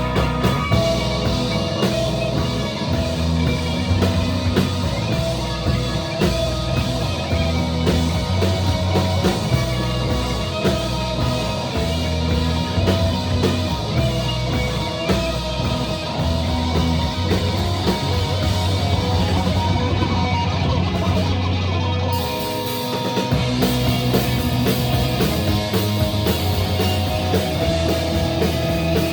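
Live rock band playing an instrumental passage with guitar, bass and drum kit. About two-thirds of the way through, the music thins for a moment, then the drums and cymbals come back in with the full band.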